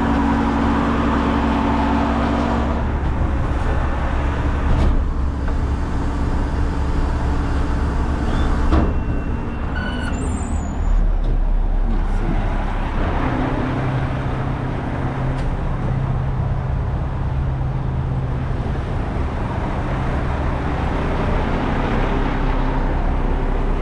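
Front-load garbage truck's engine running steadily, its note shifting to a different pitch about halfway through.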